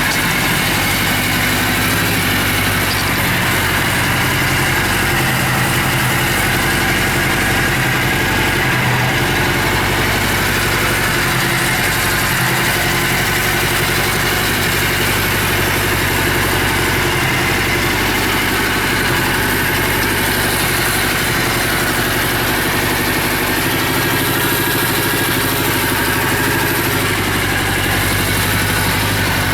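Suzuki GS750's air-cooled inline-four engine idling steadily, showing that it starts and runs.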